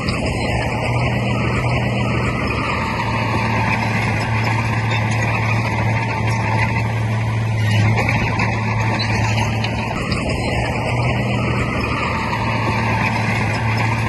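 Heavy diesel engine of earthmoving machinery running steadily, a constant low engine hum under a wash of mechanical noise.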